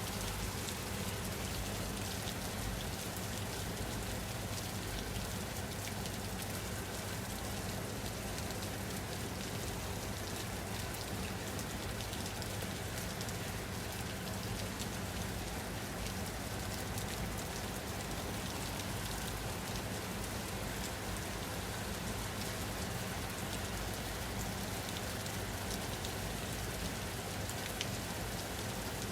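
Steady rain falling: an even, unbroken hiss of many drops, with fine individual drop ticks scattered through it.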